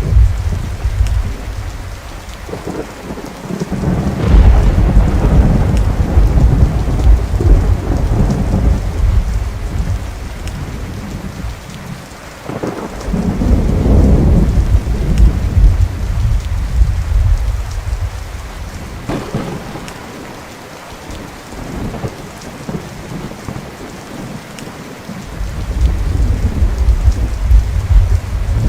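Thunderstorm: steady rain with rolling thunder. Deep rumbles swell about four seconds in and again about thirteen seconds in, with a sharper crack later and another long rumble building near the end.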